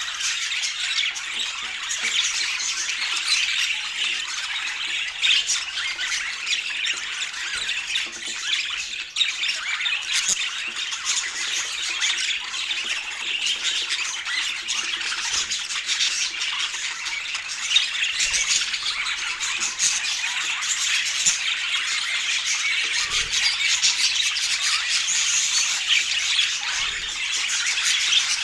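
Budgerigars chattering and squawking without a break, many high calls overlapping.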